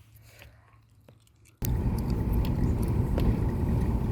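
Faint low background for about a second and a half, then an abrupt cut to a loud, steady low rumble of a moving car's road and wind noise.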